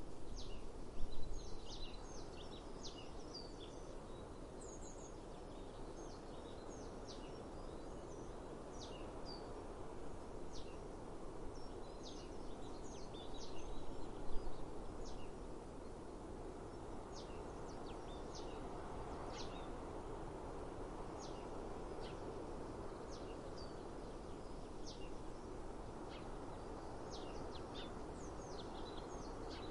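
Small songbirds chirping over and over in short, quick, falling notes, over a steady low hiss of outdoor breeze.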